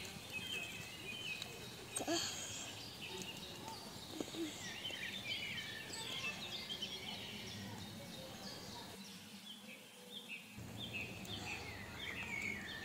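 Small birds chirping and singing in the background: many short, quick notes, thickest in the second half, over a low steady outdoor hum. A single sharp click about two seconds in.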